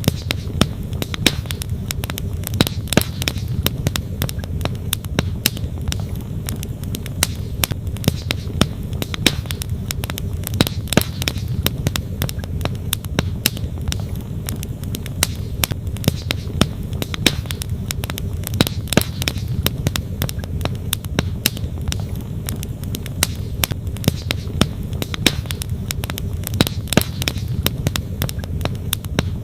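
Wood campfire crackling, with frequent irregular sharp pops and snaps from the burning logs, over the steady low rush of a flowing creek.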